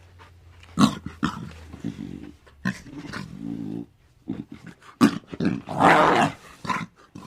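An animal making a series of short calls, with a longer harsh call about six seconds in.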